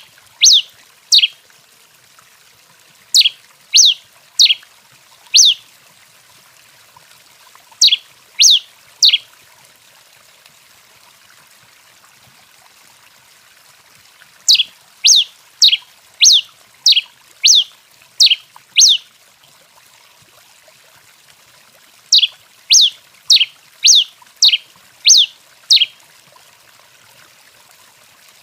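A tico-tico-rei (pileated finch) singing: phrases of three to seven sharp, quick, down-slurred notes, each phrase lasting a second or two, repeated every few seconds.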